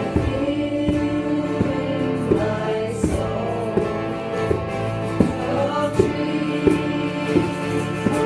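A group of voices singing a chant together over a steady drone, with instrumental accompaniment striking a regular beat about every 0.7 seconds.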